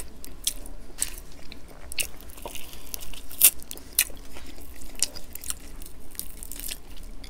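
Chewing and crunching of crispy breaded fried chicken coated in sweet-and-sour sauce, a run of irregular sharp crunches, the sharpest about three and a half seconds in.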